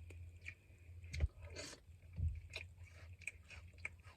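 Close-up eating sounds of chicken wings being chewed: wet chewing with many small mouth clicks and smacks, and two duller thumps about a second and two seconds in, over a low steady hum.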